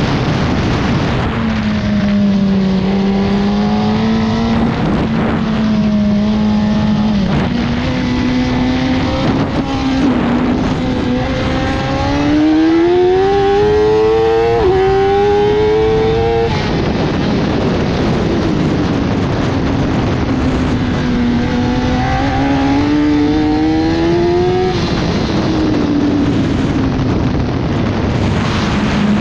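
1000 cc superbike engine at race pace. The revs climb hard from about twelve seconds in, with a quick upshift near fifteen seconds, then fall sharply as the throttle closes about sixteen seconds in. They build again from about twenty seconds and drop off near twenty-five seconds.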